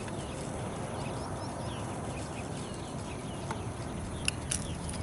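Faint bird chirps repeating over a steady low background noise, with a couple of sharp clicks about four seconds in.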